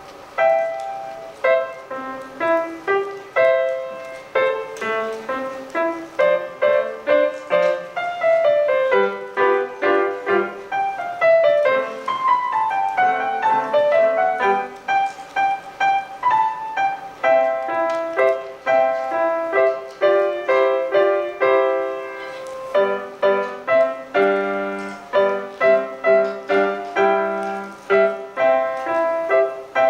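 Solo piano playing a classical student piece, note after note, with quick descending runs about halfway through.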